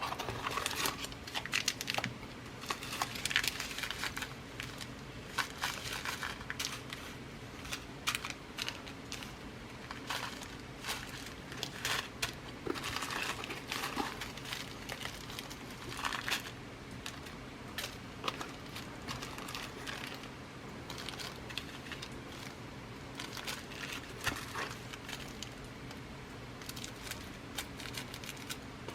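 Packets of glass seed beads being rummaged through and handled: irregular rustling and crinkling with small clicks, in short bursts throughout.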